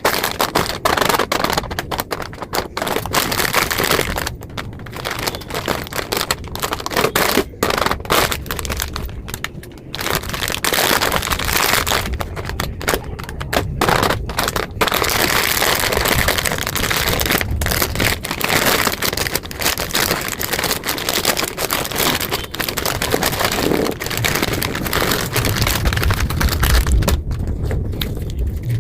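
Plastic snack packets crinkling and crackling as they are handled and torn open, with many sharp clicks.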